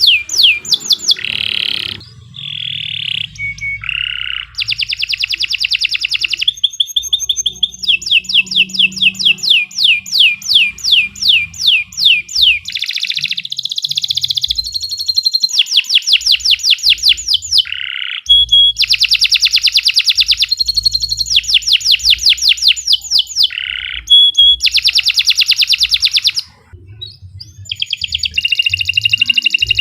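Domestic canary singing a long, continuous song of rapid repeated high trills and rolls. The phrase changes every few seconds, with only brief breaks.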